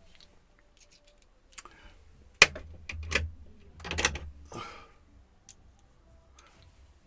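A handful of sharp clicks and clatters, about five between two and five seconds in: a small screwdriver bit and bit holder being handled and knocked together.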